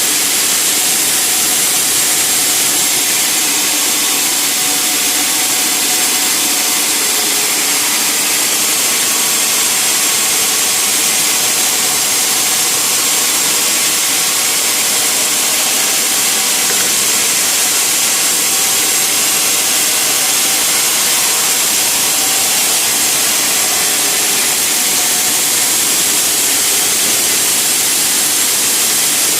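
Sawmill machinery running as a saw cuts through timber: a loud, unbroken noise, heavy in the high pitches, with a faint steady hum of motor tones beneath it.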